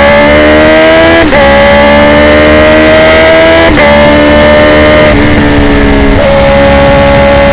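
2019 Honda CB650R's inline-four through a full Akrapovic titanium exhaust, accelerating hard: the pitch climbs and is cut by quickshifted upshifts about a second in and again near four seconds, then the engine runs at a nearly steady pitch at speed.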